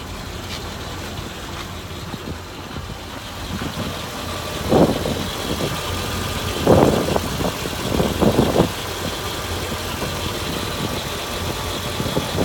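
Forestry bucket truck's engine idling steadily and quietly, with no shake, under the open hood. A few short, louder noises rise over the idle around the middle.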